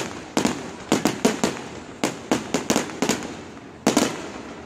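Fireworks going off in quick runs of sharp cracks and bangs, several at a time, about every half second, each dying away in a short echo.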